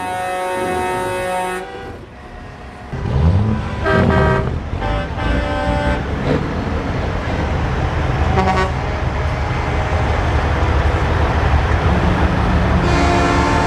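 A song cuts off about a second and a half in; then diesel semi-truck engines rumble and rev, with air horns blowing several times, the last long blast near the end.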